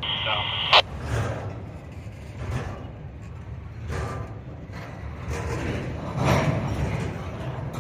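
Double-stack intermodal freight train rolling past, a steady low rumble of wheels on rail with scattered clanks. Just under a second in, a short high burst from a scanner radio ends in a sharp squelch click.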